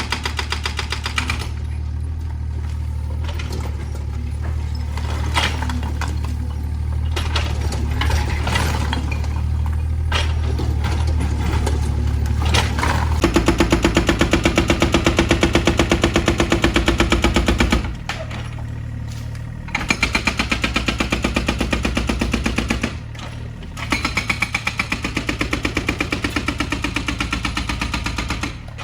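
Excavator's diesel engine running during house demolition, with scattered cracks and crunches of breaking structure. About halfway through, a rapid, regular mechanical hammering starts and runs in three bursts with short pauses between.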